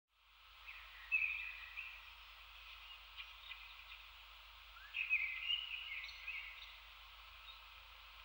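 Songbird singing in woodland: two short phrases of song, about a second in and again about five seconds in, over a steady hiss.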